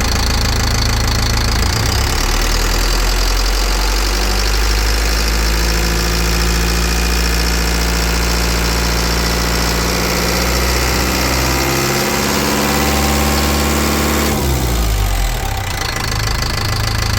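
Mercedes-Benz MBE 904 four-cylinder diesel engine running: the engine speed rises about two seconds in, holds, then drops back to idle near the end.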